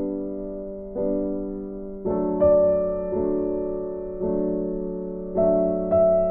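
Gentle background piano music: soft chords, each struck and left to fade, changing about once a second.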